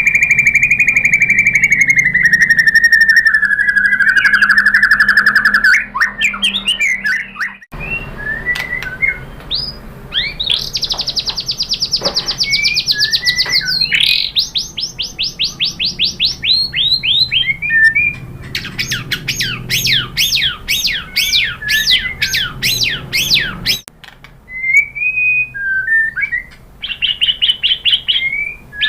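White-rumped shama singing: a long whistled note that slowly falls in pitch with a fast flutter, then quick, varied phrases of rapid trills and sweeping notes. The song breaks off sharply twice and resumes.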